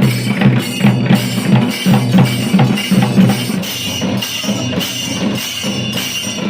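Drums playing a fast, steady rhythm, with repeated deep, pitched drum strokes and sharper strikes over them.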